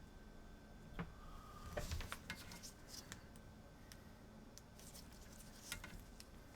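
Multimeter probe tips tapping and scraping on a circuit board: a scattering of light clicks and scratches, most of them about a second to two and a half seconds in, and a few more near the end.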